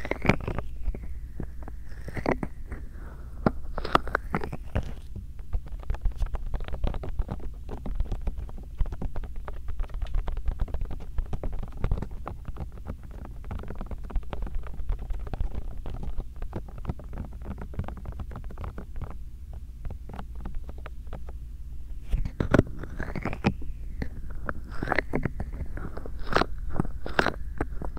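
Bare hands rubbing and massaging right against a binaural microphone: close, crackly friction noise over a low rumble. Squeaky rubbing strokes come in the first few seconds and again near the end.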